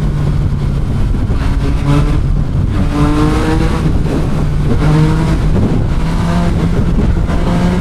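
Motorcycle engine under hard acceleration, its pitch rising and dropping back several times as it shifts up through the gears, over wind rush. It is a full-throttle test run after the rider felt something wrong with the chain.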